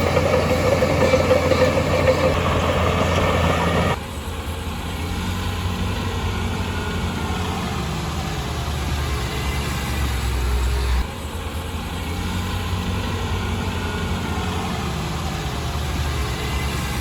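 Heavy diesel engines of earthmoving machines running steadily, louder and rougher for the first few seconds. The sound changes abruptly twice, at about 4 and 11 seconds.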